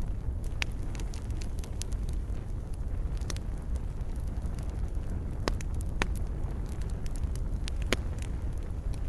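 Wood fire crackling in a fireplace: a steady low rumble of burning with irregular sharp pops and snaps, the loudest three coming between about five and a half and eight seconds in.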